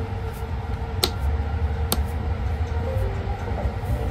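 Sunrise Seto sleeper train (285-series electric multiple unit) running, a steady low rumble heard inside the compartment, with two sharp clicks about a second apart.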